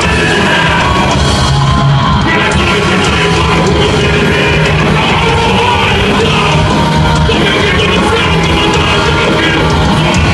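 Live rock band playing loudly, with a singer's voice yelling over the music.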